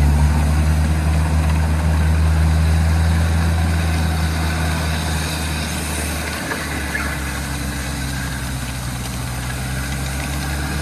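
Off-road vehicle's engine running steadily at low revs, with a steady low note that eases off a little about halfway through.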